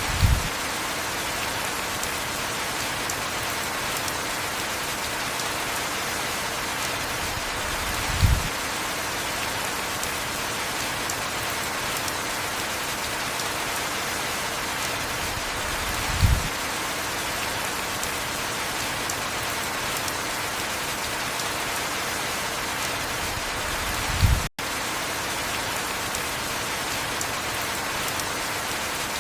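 Steady heavy rain, an even hiss, with four short low thumps evenly spaced about eight seconds apart. Just after the last thump the sound cuts out for a split second.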